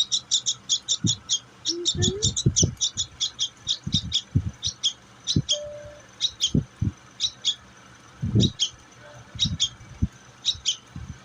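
Pet bird chirping over and over in short, high chirps, fast at first and then more spaced out. Soft low knocks come now and then between them.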